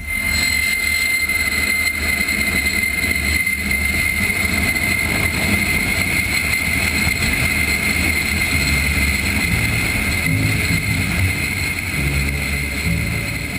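Loud, steady engine drone inside the cabin of a military transport aircraft, with a constant high whine over a heavy low rumble.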